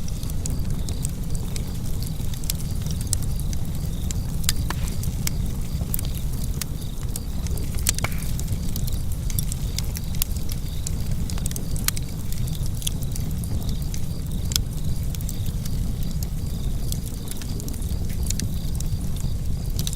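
Wood fire burning in a fireplace: a steady low rumble of flames with irregular sharp crackles and pops throughout, a few louder snaps standing out.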